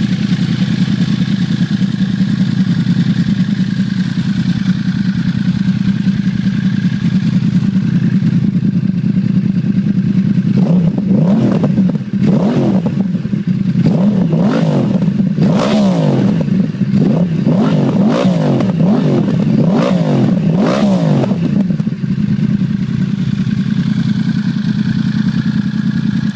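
2012 Yamaha R1's crossplane inline-four through a Graves Link titanium and carbon slip-on exhaust, warm and idling steadily. About ten seconds in it is revved in a quick string of throttle blips, each climbing and falling back, for some ten seconds, then settles back to idle. The sound is deep and throaty.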